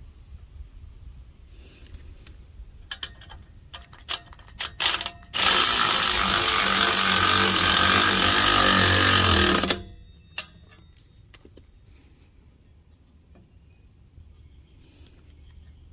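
Impact wrench with a 16 mm socket hammering the exhaust tip's clamp nut tight for about four seconds, after a few sharp clicks of the socket and clamp being handled.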